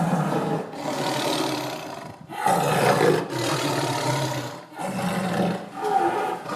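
A big cat roaring and growling: a run of several long, low roars with short breaks between them.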